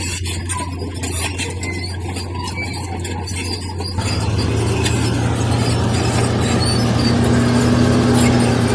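Bulldozer's diesel engine running steadily, with high squeals and clicks of the steel tracks and blade working. About four seconds in, the sound changes abruptly and grows louder, with a steadier, higher engine note.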